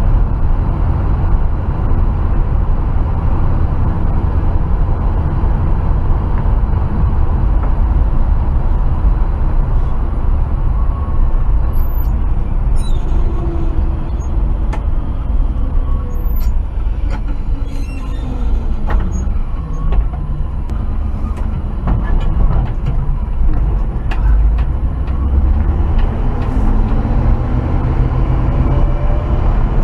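1968 Chevrolet C20 pickup's engine running under way with a steady, loud rumble. Its pitch falls slowly midway and rises again near the end as the truck slows and speeds up, with scattered small clicks and rattles.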